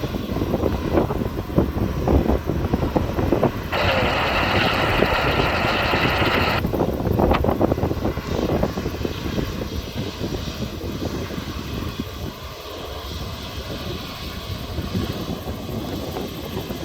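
Airbus A350-900's Rolls-Royce Trent XWB jet engines running at taxi power, a steady low rumble. A few seconds in there is a burst of air-band radio sound lasting about three seconds.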